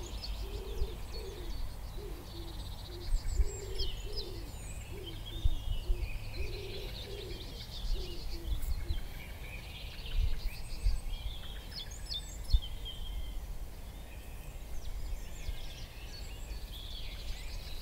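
Woodland birds chirping and calling, with a run of low, repeated calling notes in the first half.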